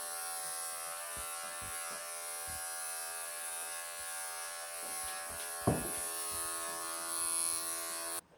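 Wahl professional electric pet clippers running with a steady buzzing hum while clipping a Persian cat's thick, matted coat, cutting off suddenly just before the end.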